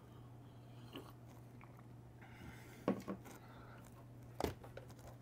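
Faint chewing and mouth sounds of someone eating, with a few short sharp clicks, the loudest about four and a half seconds in, over a low steady hum.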